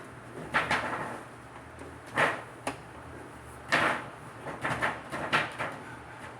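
Irregular knocks and clunks, about six spread over a few seconds, from handling and fitting a sheet of aluminum on the cab roof.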